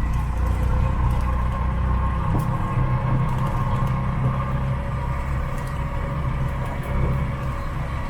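Engine and road noise heard from inside a moving taxi: a steady low drone with light rattles.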